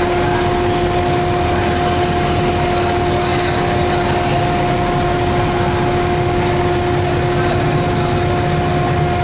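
Steady engine and machinery drone with a constant hum that holds two unchanging pitches, one an octave above the other; nothing rises or falls.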